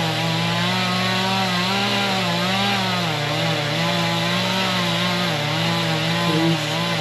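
Chainsaw running continuously while cutting into a tree, its engine pitch wavering up and down as the chain loads in the wood.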